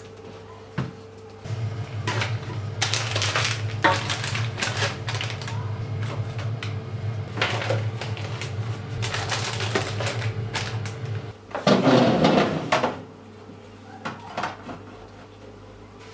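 Household handling sounds: irregular scraping and knocking of things being moved over a faint steady low hum, with a louder burst of clatter about twelve seconds in.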